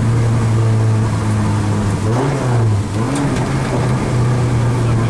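Rally car's engine heard from inside the cockpit, running at steady revs, with a brief dip and rise in pitch about two seconds in before it settles back to a steady note.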